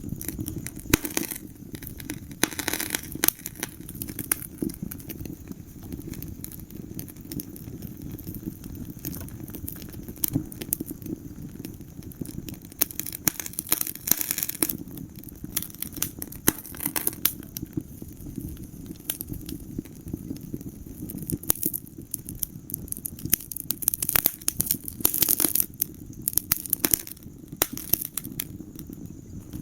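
Wood fire in a fireplace crackling: irregular sharp pops and snaps, clustering in quick runs at times, over a steady low rumble of the flames.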